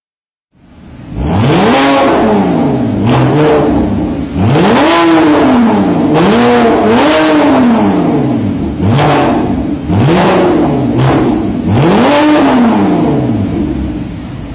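Porsche Boxster S flat-six revved through an aftermarket dual-exit valvetronic exhaust: about six quick blips, each rising sharply in pitch and falling back to idle.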